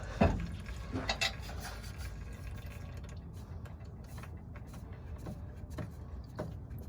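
Diesel fuel draining from a truck's fuel filter housing and trickling into a plastic catch container, with a couple of sharp knocks in the first second or so.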